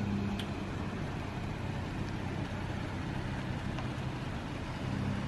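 Engine running steadily: a low, even hum with no speech over it.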